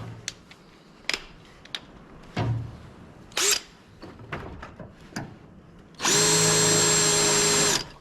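A few light clicks and knocks, then about six seconds in an electric drill runs at one steady speed for just under two seconds and stops abruptly, drilling a bracket hole for the Jeep's top.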